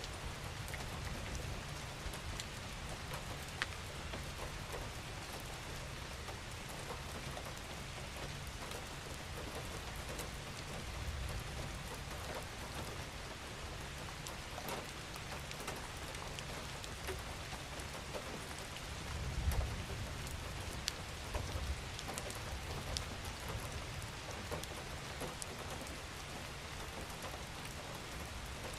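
Steady gentle rain falling, with scattered individual drops ticking sharply over the even hiss. A brief low rumble swells about two-thirds of the way in.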